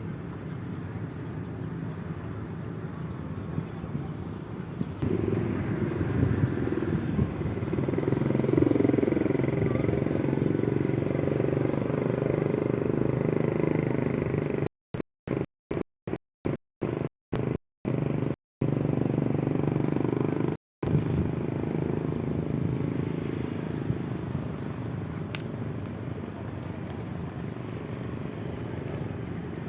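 Steady rumbling hum of a child's electric motorbike riding over open ground, mixed with tyre and wind noise. It grows louder about five seconds in and eases off later. A string of brief complete cut-outs breaks it up around the middle.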